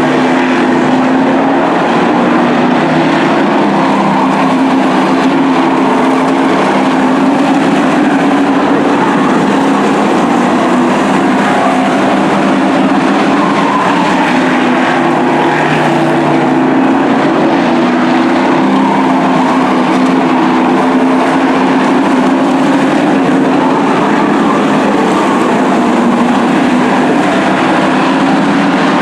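A field of short-track race trucks running at speed, with loud continuous engine noise that swells and eases slightly as they circle the track.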